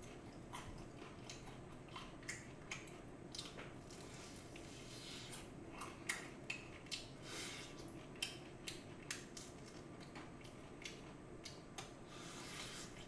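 Biting and chewing of BHC Bburinkle fried chicken, with scattered crunches at an irregular pace; several louder crunches come from about six seconds in.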